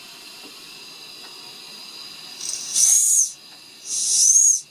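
Weighted safety valve on the boiler of a 1930s Bing twin-cylinder toy steam engine blowing off steam twice, about two and a half seconds in and again near the end, each a short hissing burst with a whistling note: the boiler has reached working pressure. A faint steady hiss lies underneath.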